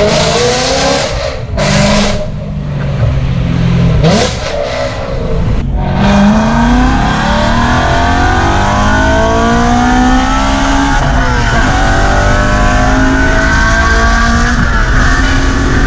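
BMW E92 M3's 4.0-litre V8 through an Armytrix valved exhaust, revving and accelerating hard. Short blips with brief lift-offs come first, then two long pulls rising in pitch, with a gear change about eleven seconds in.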